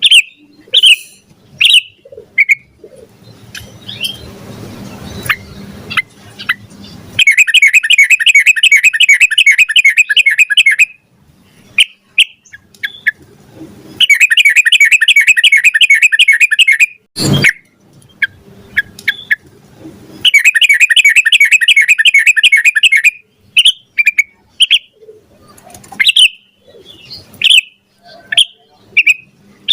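Yellow-vented bulbul singing: short scattered chirps broken by three long, rapid trilled runs of song, each lasting about three seconds. A sharp click sounds once in the middle, and a rushing noise rises under the chirps early on.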